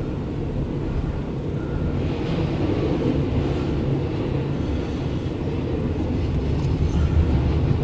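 CSX intermodal freight train rolling past with a steady low rumble.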